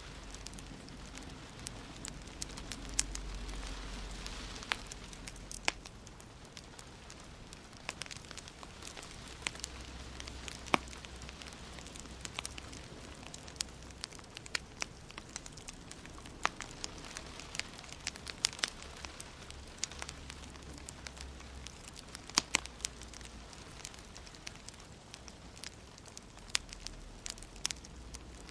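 Wood fire in a fireplace crackling, with irregular sharp pops scattered over a soft steady hiss.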